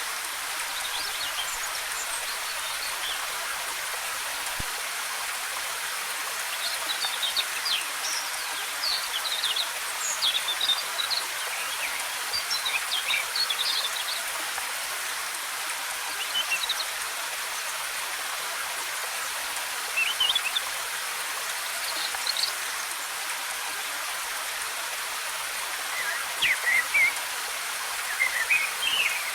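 Waterfall pouring steadily, with forest birds chirping over it in short runs of quick high calls. The chirps come most thickly about a quarter of the way in and again near the end.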